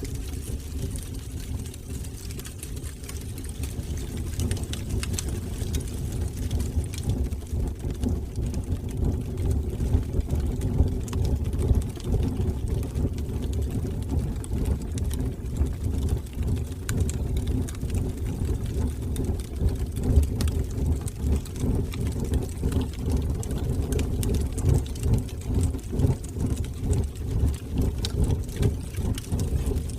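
Fire burning in a fireplace: a steady low rumble of flames with scattered crackles and pops throughout.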